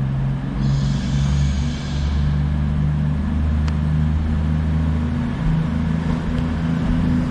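Diesel train engines running steadily at the platform, a low even drone, with a brief faint hiss about a second in.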